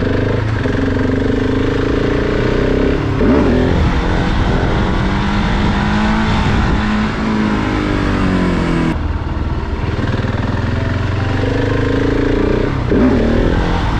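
Supermoto motorcycle engine running as it is ridden, over a steady rushing hiss. The revs rise about three seconds in, the pitch sinks slowly for a couple of seconds past the middle as it slows, and the revs rise again near the end.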